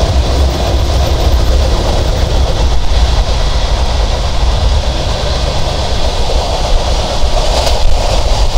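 Passenger train running along the track, heard from on board: a steady, loud rumble of wheels and carriage with rushing air.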